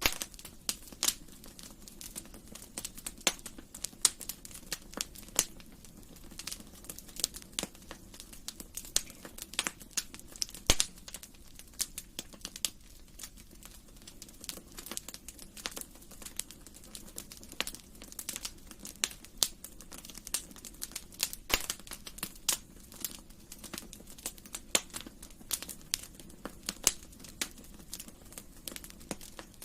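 Wood fire crackling in a fireplace: irregular sharp pops and snaps over a low steady hiss of burning, a few pops louder than the rest.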